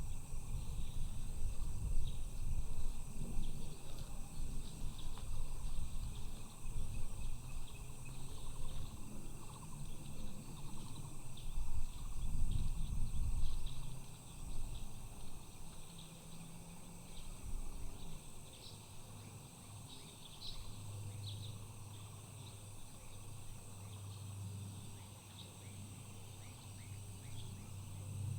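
Steady chorus of insects with several unbroken high-pitched bands, over a loud low rumble that eases off about halfway. A steady low hum comes in during the second half.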